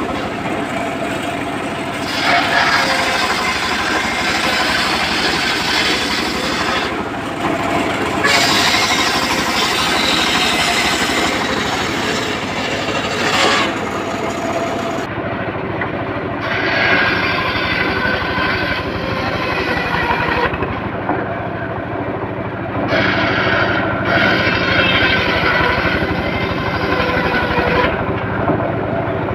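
Homemade circular saw rig running steadily while its blade saws teak. The higher cutting noise drops away briefly several times and comes back.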